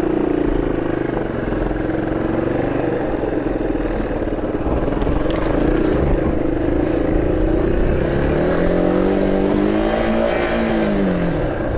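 A vehicle engine running continuously, its pitch wavering. About eight seconds in it rises, then falls away near the end.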